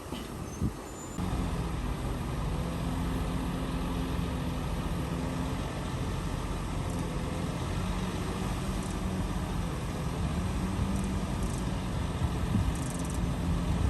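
Heavy diesel engine of earthmoving machinery running steadily at a constant pitch, coming in abruptly about a second in.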